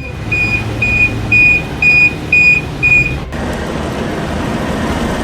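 A heavy machine's back-up alarm beeps about six times, roughly two a second, over its diesel engine running. The beeping stops suddenly and the engine keeps running.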